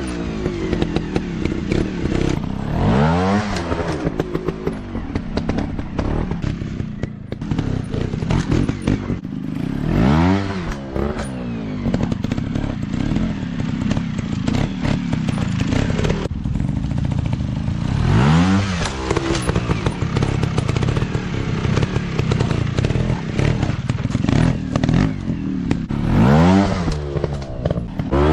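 Off-road dirt bike engines running and revving, their pitch climbing and falling back in repeated arches. Scattered clattering knocks come through over the engine sound.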